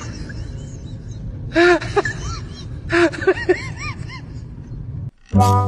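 A few short series of pitched voice sounds over a steady low rumble; music starts suddenly near the end.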